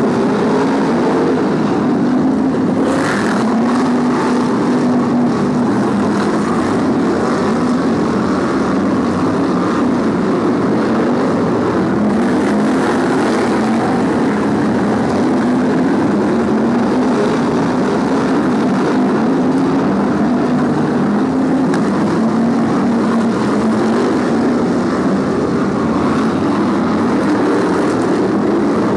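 A pack of BriSCA F1 stock cars racing, their V8 engines running hard without a break, the note rising and falling as cars pass, brake into the turns and accelerate out.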